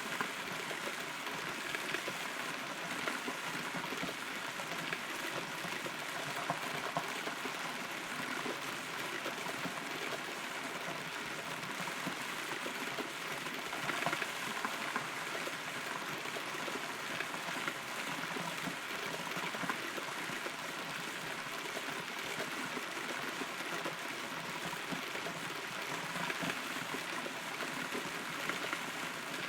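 Rain falling, heard from inside a hollow rotten tree: a steady hiss of rain with many small drop ticks.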